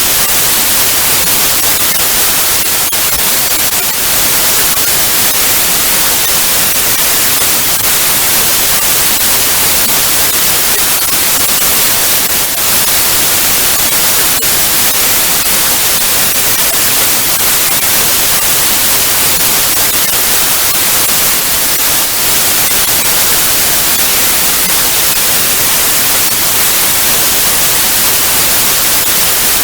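Analogue TV static: a loud, steady hiss, brightest in the treble, with the odd faint crackle.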